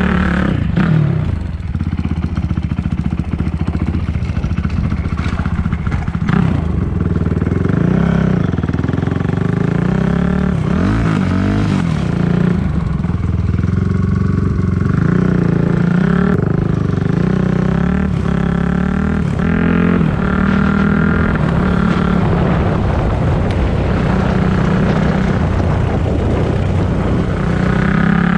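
Four-stroke dirt bike engine being ridden, its pitch climbing and dropping back again and again as the throttle is worked.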